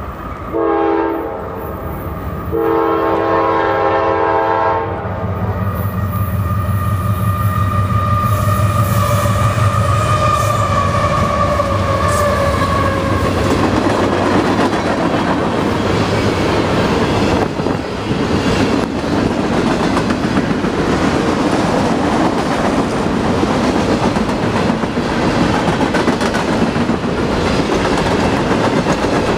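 A CSX freight train's diesel locomotive horn sounds a multi-note chord twice, first a short blast and then a longer one. The locomotives then pass with a deep diesel rumble and a fading whine. The string of container flatcars follows, rolling steadily over the rails with a regular wheel clatter.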